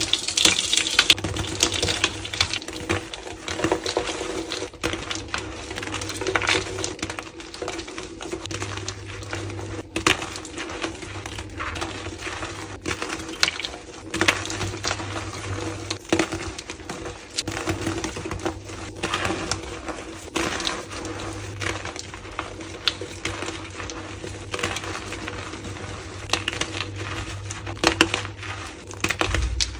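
Blocks of gym chalk being crushed and crumbled, a dense uneven run of crunchy crackles and snaps, over a steady low hum.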